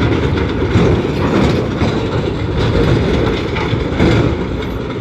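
Heavy diesel earthmoving machinery working under load, its low engine noise overlaid with a dense, continuous rattling and clanking.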